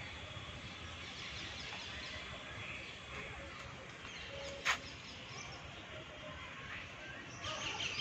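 Small birds chirping over a steady background hiss, with a quick run of chirps near the end. One sharp click a little past halfway is the loudest sound.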